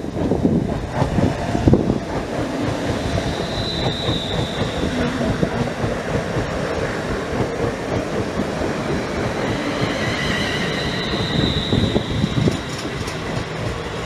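A train passing close by, the continuous rumble of wheels on rail, with a faint high squeal from the wheels coming in briefly about four seconds in and again near the end.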